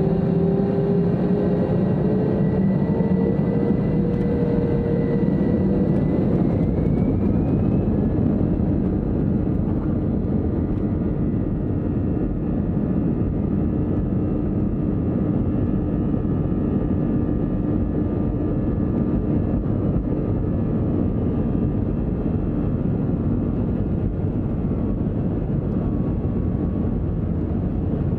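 Airbus A321-200 engines and airflow heard inside the passenger cabin during takeoff: a loud, steady rumble, with engine tones rising in pitch over the first several seconds and then holding steady.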